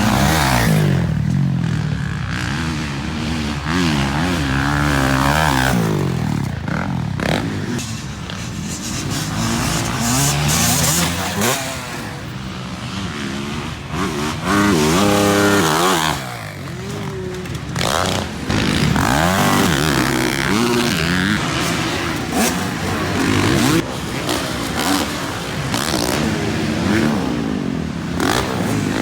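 Dirt bike engine being ridden, revving up and dropping back again and again as the rider works the throttle and gears.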